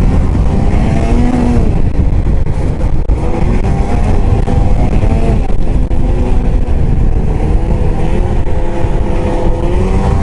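Arctic Cat ZR 8000 snowmobile's 800 C-TEC two-stroke twin running under throttle while riding, its pitch rising and falling several times as the throttle is worked.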